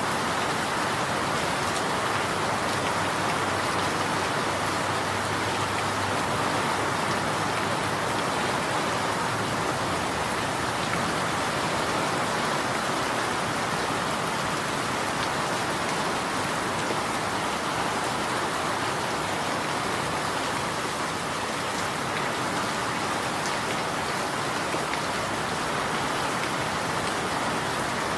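Steady, even rainfall with no thunder or other events.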